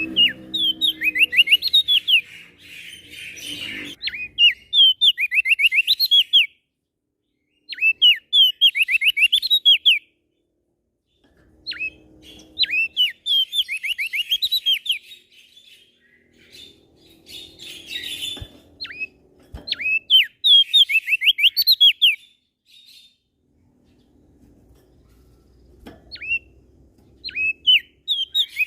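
Prenjak daun songbird singing in quick runs of sharp, rapidly repeated chirping notes, each phrase lasting about two seconds with short pauses between.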